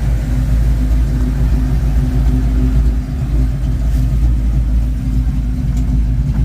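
1972 Ford Mustang Mach 1's V8 idling steadily, fitted with a Crane 2040 cam and breathing through a Black Widow Race Venom muffler on a single 3-inch exhaust.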